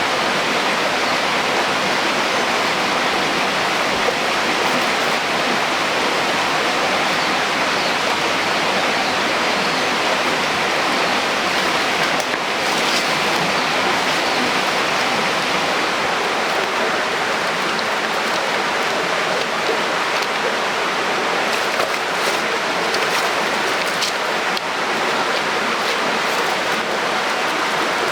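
Steady rush of running water, an even hiss without pauses, with a few faint ticks in the second half.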